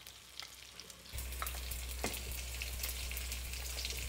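Stuffed okra pieces dropping into hot oil with mustard and cumin seeds: a steady sizzle sets in about a second in, with scattered light clicks and a low hum underneath.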